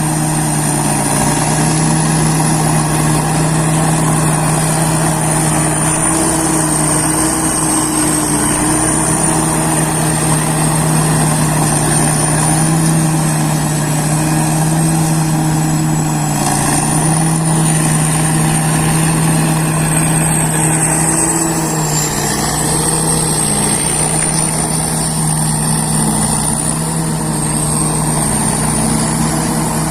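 Rice combine harvester running steadily: a constant engine drone with a thin, high whine above it that wavers slightly in pitch.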